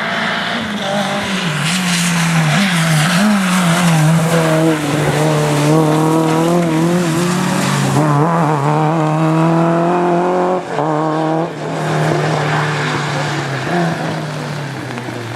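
Rally car engine running hard under load, its pitch rising and falling with throttle and gear changes, with a short lift about eleven seconds in, and tyres squealing on the road.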